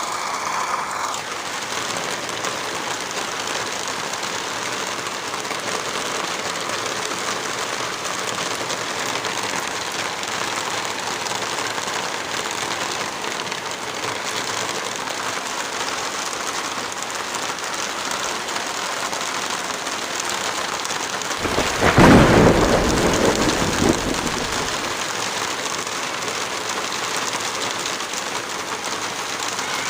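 Steady rain falling, with one rumble of thunder a little over twenty seconds in that peaks quickly and fades over about three seconds.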